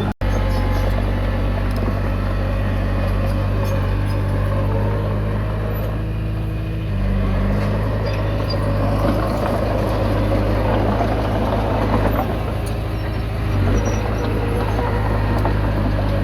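Komatsu D20P bulldozer's diesel engine running steadily under work, with a momentary break just after the start. About seven seconds in the engine note shifts, and a rougher, noisier stretch follows in the second half.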